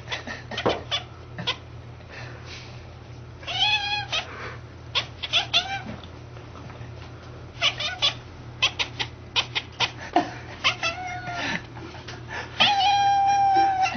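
Domestic cat vocalizing at a window: strings of quick clicking sounds broken by short wavering meows and yowls, ending in one long held howl.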